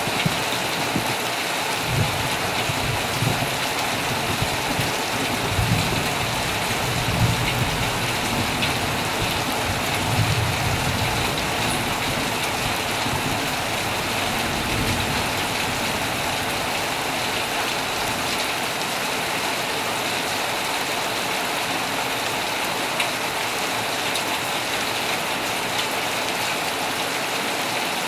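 Heavy rain falling steadily on a tent, a dense even hiss of drops. Low rumbles come and go through the first half, then fade out.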